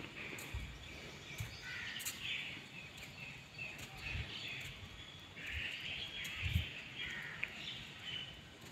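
Birds chattering and calling in bursts, several at once, with a few short low thuds.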